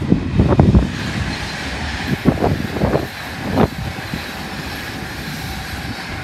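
Class 390 Pendolino electric train running through the station: a steady rush of wheels and air with a few sharp knocks from the wheels, and wind buffeting the microphone in the first second.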